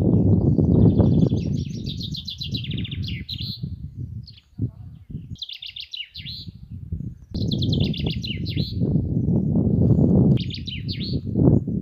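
A songbird singing four phrases of rapid repeated high notes, each a second or two long and ending in a brief flourish. Under the song runs a loud, uneven low rumble that is louder than the bird and drops away briefly near the middle.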